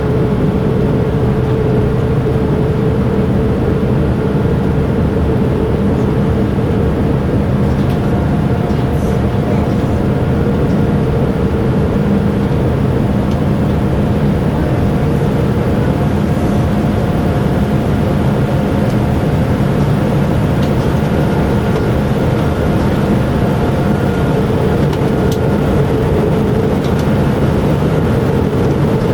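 Steady cabin noise of a Boeing 787-9 airliner heard from a window seat: jet engine and airflow drone, with a few faint steady tones over it.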